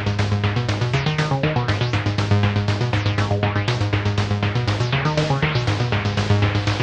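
Moog DFAM analog drum synthesizer playing a fast, even sequenced pattern of percussive hits, over a Mother-32 synthesizer bass line that steps up and down in pitch.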